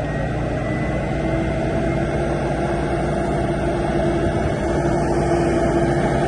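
Vehicle engine running steadily with a low rumble, growing slightly louder toward the end.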